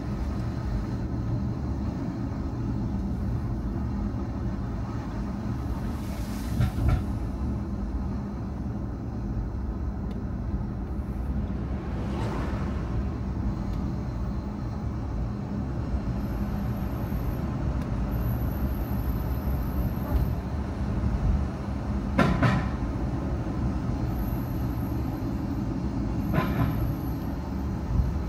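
A car driving on the road: steady tyre and engine rumble, broken by a few brief knocks, about four over the stretch.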